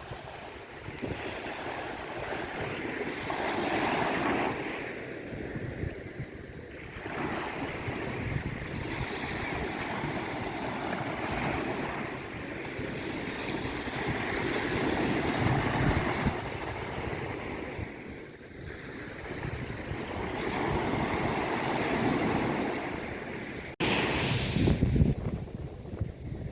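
Sea waves washing in and drawing back, swelling and fading every few seconds, with an abrupt break a little before the end followed by a strong low surge.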